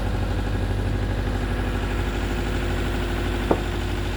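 A heavy machine's engine idling steadily, with one sharp metallic clank about three and a half seconds in.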